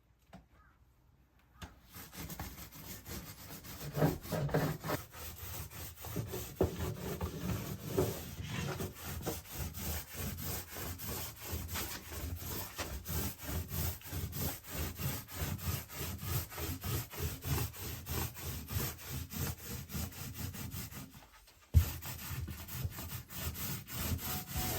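Rapid, steady rubbing strokes, starting about two seconds in and stopping briefly near the end before resuming.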